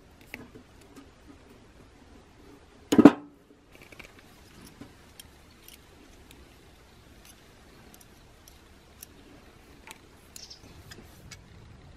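Scattered light clicks and taps of hands at work, with one loud short knock about three seconds in.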